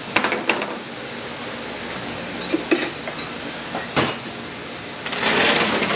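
Metal clinks and knocks of wrenches and automatic-transmission parts being handled during teardown, some ringing briefly, with a sharper knock about four seconds in and a harsh rush of noise lasting about a second near the end.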